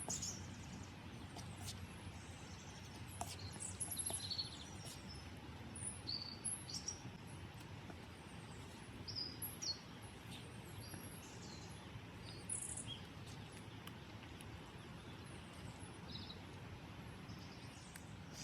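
Wild birds chirping and calling, many short high chirps scattered throughout, over a steady low background rumble.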